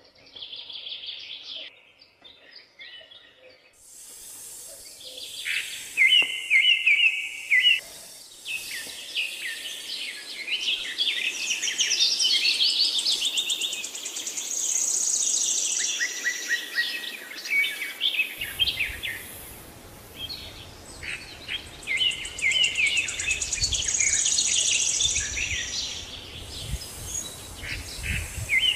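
Birds singing and calling, with many overlapping chirps and trills, over a steady outdoor hiss. A low rumble comes in about two thirds of the way through.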